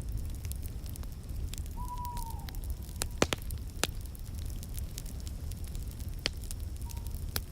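Wood fire crackling in a fireplace: a steady low rumble and hiss with scattered small crackles and a few sharper pops. About two seconds in, a single short hooting call, held on one note and dropping at its end, sounds over the fire.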